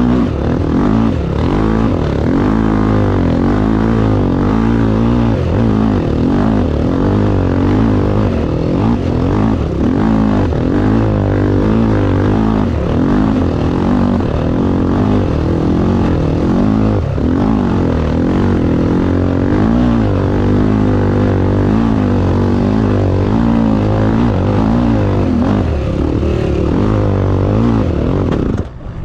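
Racing vehicle's engine running hard, its revs rising and falling again and again, until the sound cuts off abruptly near the end.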